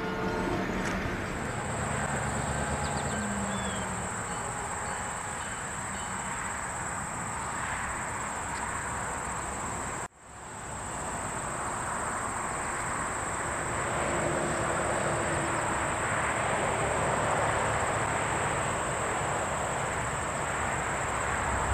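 Diesel freight train running by, a steady rushing rumble of locomotive and rolling cars, with a steady high-pitched insect buzz over it. The sound drops out abruptly about halfway through and comes back within a second.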